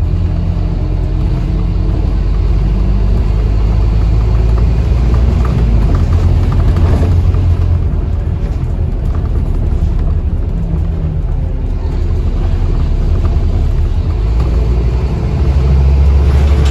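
Scania Enviro 400 double-decker bus running, heard from inside: a steady deep engine and road rumble. It gets heavier about six seconds in and again near the end.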